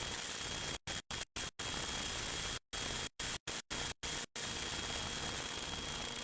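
Steady static-like hiss with a faint steady high tone, cut by about ten abrupt, brief dropouts to silence between about one and four and a half seconds in.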